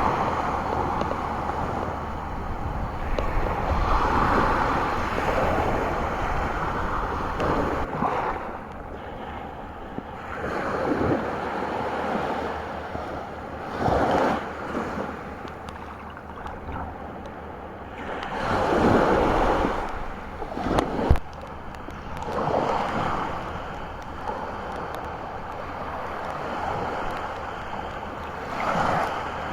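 Sea waves breaking and washing onto a beach, swelling up every few seconds, with wind gusting across the microphone.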